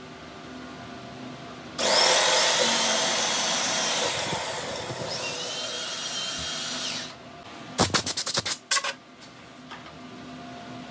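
A power tool runs loud with a high whine for about five seconds, slowing and dropping in pitch before stopping. About a second later it gives a quick string of short bursts.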